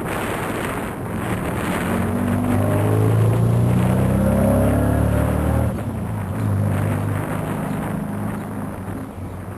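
A motor vehicle's engine running close by and accelerating, its pitch climbing and then dropping about six seconds in, as at a gear change, with wind noise on the microphone.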